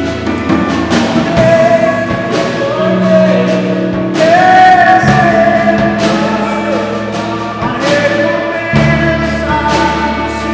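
Live gospel worship music: a singer holding long notes over a band, with bass notes changing every few seconds and regular drum and cymbal strikes.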